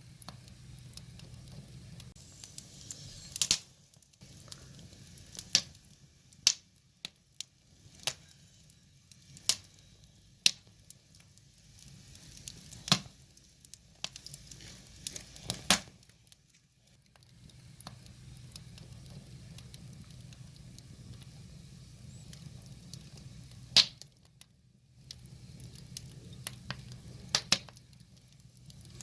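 Firewood fire burning, crackling with irregular sharp pops, some much louder than the rest, over a soft steady hiss.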